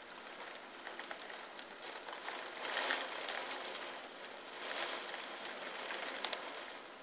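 Heavy rain falling, with individual drops striking nearby surfaces as sharp ticks; the downpour swells louder twice, about three and five seconds in.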